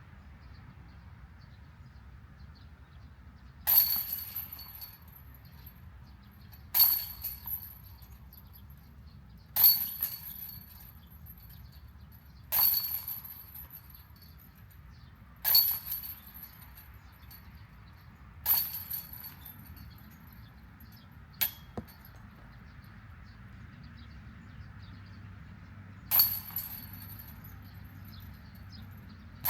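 Disc golf putts hitting the chains of a metal basket: a jingling chain rattle about every three seconds, seven times, each ringing briefly before dying away. One shorter, sharper clank comes about three-quarters of the way through, typical of a disc striking the basket's metal frame.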